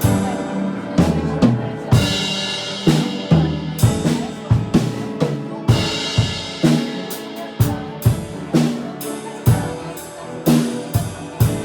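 Live worship band playing an instrumental passage: a drum kit beat with bass drum and snare hits and cymbal crashes about two and six seconds in, over sustained piano chords.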